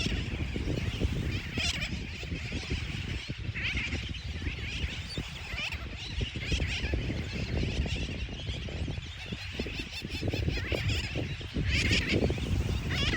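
Sooty tern nesting colony calling: many birds calling over one another, with louder single calls standing out every second or two, over a steady low rumble.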